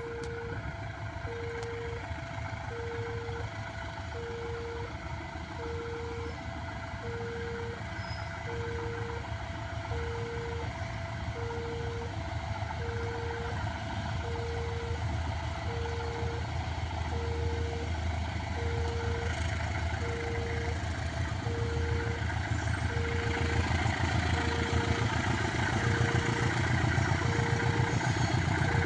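Electronic level-crossing warning alarm beeping in a steady, even rhythm, two tones sounding together on each beep. Under it a low engine rumble grows louder over the last several seconds.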